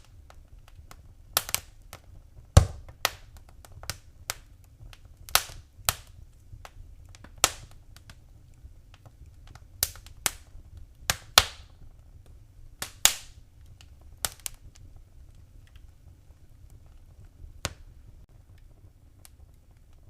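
Wood fire in a fireplace crackling: irregular sharp pops and snaps over a low rumble, a few of them loud, thinning out near the end.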